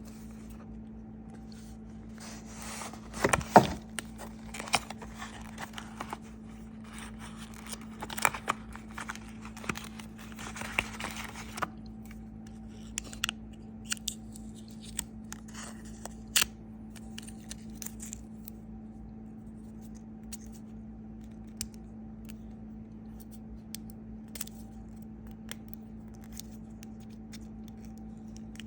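Packaging being opened and handled by hand: bursts of scraping and rustling with sharp clicks and taps, loudest about three seconds in and again between about eight and twelve seconds. After about eighteen seconds only occasional clicks remain over a steady low hum.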